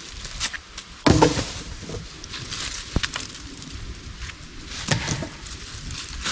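Wooden sticks and branches knocking and clattering, with a rustle of dry leaves and debris, as a stick-and-leaf debris shelter is pulled apart by hand. The loudest knock comes about a second in, with sharper clicks later.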